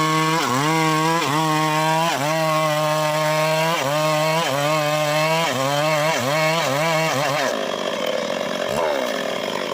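Two-stroke chainsaw engine running at high revs while cutting mahogany, its pitch dipping briefly and recovering again and again as the chain bites under load. About seven and a half seconds in the revs fall away and the sound turns rougher.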